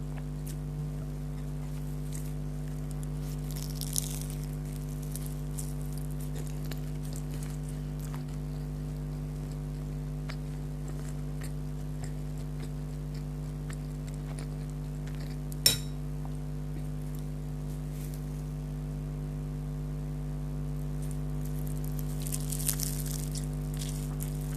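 Sparse eating sounds, scattered crunches and mouth noises from chewing fried beef kachori, over a steady low electrical hum. One sharp click stands out about two thirds of the way through, and a short run of crackly crunching comes near the end.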